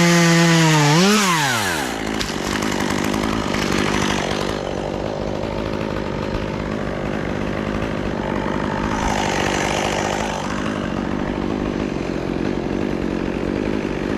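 Chainsaw revved to full throttle, dipping and revving once more, then dropping back about two seconds in to run steadily at idle.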